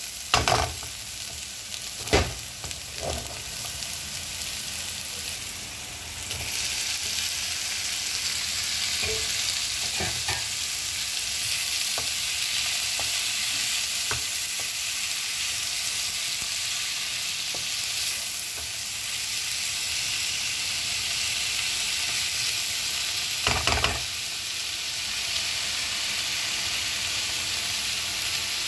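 Chopped onions and then tomatoes sizzling in hot oil in a pan, stirred with a wooden spatula that knocks against the pan a few times. The sizzle gets louder about six seconds in and then stays steady.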